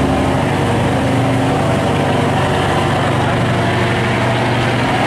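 A boat's engine running steadily at an even speed, with a low hum and a noisy wash over it.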